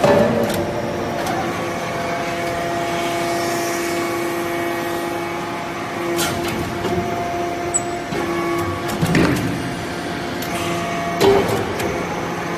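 Hydraulic metal shavings baler running: a steady hum from its motor and hydraulic pump, with a few sharp knocks along the way.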